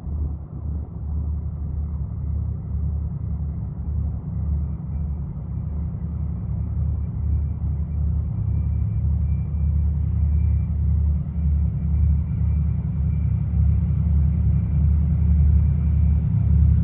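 2TE10U twin-section diesel locomotive's two-stroke diesel engines running under load with a deep low rumble, growing steadily louder as it approaches with its train. A faint steady high whine runs over the rumble.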